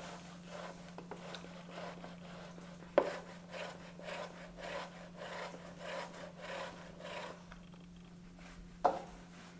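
A fork mashing peeled boiled potatoes in a bowl: rhythmic scraping and squashing strokes, about two a second, with a sharp knock about three seconds in and another near the end.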